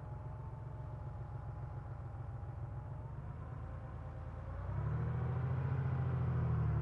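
1990 Porsche 911's air-cooled flat-six engine idling steadily, then getting louder about two-thirds of the way through as the throttle is opened.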